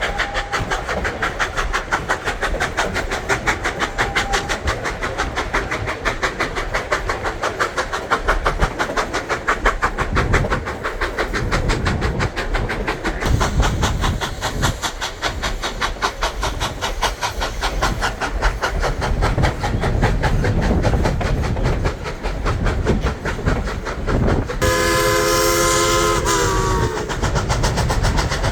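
Durango & Silverton narrow-gauge steam train running, with a fast, even beat and rail noise throughout. About 25 seconds in, the steam whistle sounds one chord for about two seconds, its pitch dropping as it cuts off.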